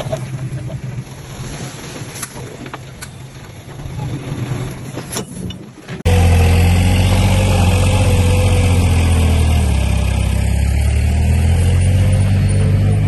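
Diesel engines of heavy earth-moving machinery running, with a few clanks and knocks in the first half. About six seconds in, the sound cuts abruptly to one much louder engine running steadily close by.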